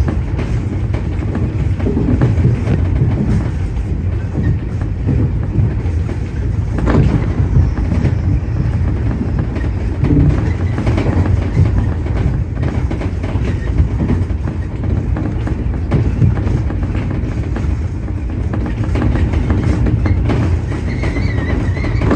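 Tobu 30000 series electric train running at speed, heard from inside the leading car: a steady rumble with scattered wheel clicks over rail joints, and a faint high tone near the end.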